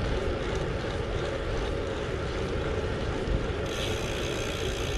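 Gravel bike riding noise: tyres rolling and wind rushing over the microphone as a steady low rumble, with a higher hiss growing louder about three and a half seconds in.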